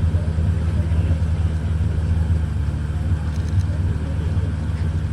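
Pagani Zonda HP Barchetta's 7.3-litre Mercedes-AMG V12 idling with a deep, steady rumble.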